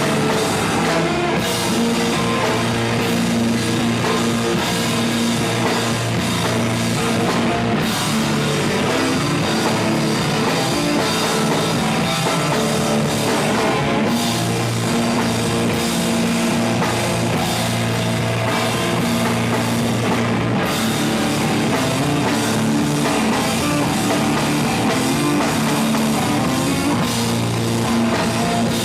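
Live heavy rock band playing at full volume: drum kit and distorted electric guitars in a dense, unbroken wall of sound.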